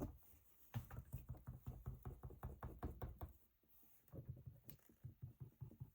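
Rapid, faint tapping on paper, several light taps a second, in two runs with a short pause about three seconds in: glue being dabbed along the edges of a paper strip.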